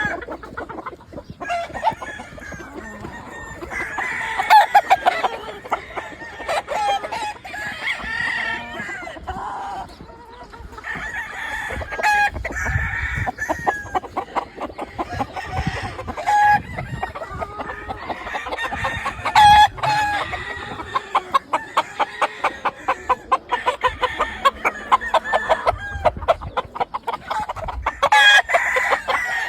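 Several gamefowl roosters crowing again and again, overlapping one another, with clucking between the crows.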